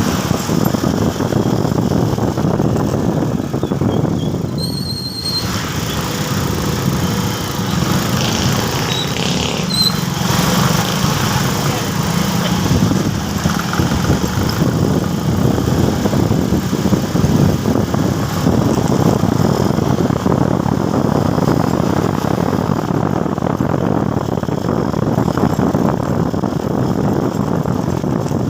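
Motorcycle running on the road, its engine under a steady rush of road and wind noise. A brief high-pitched squeal sounds about five seconds in.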